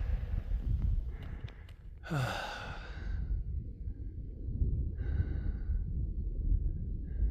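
A man out of breath from climbing lets out a long sigh about two seconds in, opening with a falling voiced groan, then breathes out again just after five seconds, over a steady low rumble.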